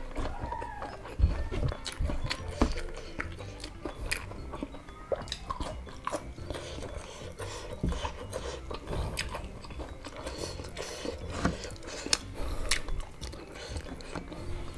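Close-up chewing and mouth sounds of a person eating crispy breaded chicken nuggets and rice, with frequent short clicks throughout.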